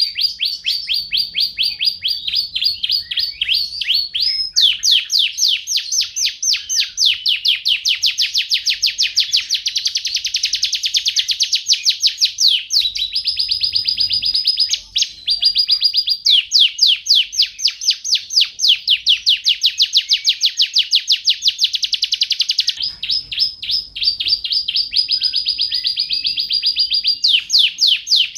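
Domestic canary singing a long, loud song of rapid rolling trills: one note repeated many times a second, phrase after phrase, changing pitch and speed between phrases with short breaks.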